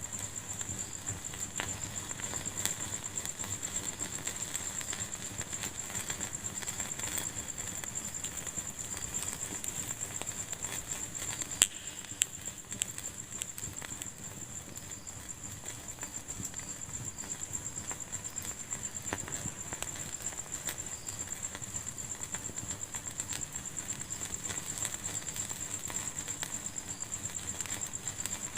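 Fireplace fire crackling steadily with many small pops, and two sharper, louder pops about twelve seconds in. A faint steady high whine runs underneath.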